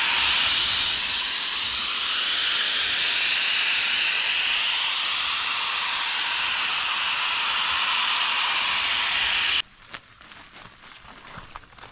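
A loud, steady hiss of rushing air or spray that holds for about nine and a half seconds and then cuts off suddenly.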